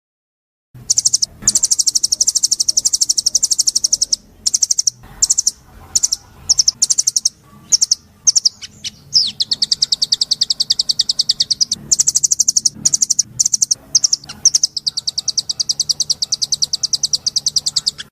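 A songbird singing long, rapid trills of high, evenly repeated notes, broken by short pauses and a few choppier phrases. The song starts suddenly just under a second in.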